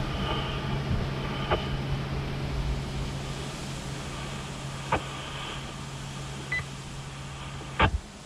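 Two-way radio receiver hissing with a steady low hum from an open carrier, broken by a few sharp clicks and one short beep. The hum cuts off with a click near the end as the transmission unkeys.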